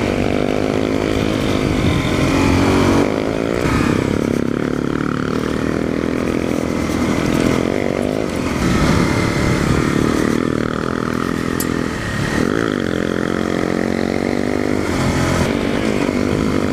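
Single-cylinder dual-sport motorcycle engine running under way, its pitch rising and falling again and again as the throttle opens and closes and the gears change.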